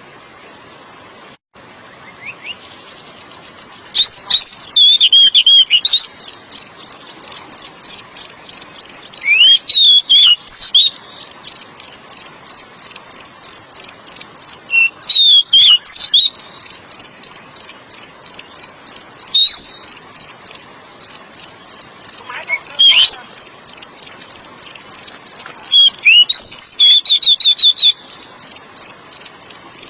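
Oriental magpie-robin (kacer) song: sweeping, high whistled phrases over a long run of fast, even, cricket-like chirps, several a second. The song starts loud about four seconds in.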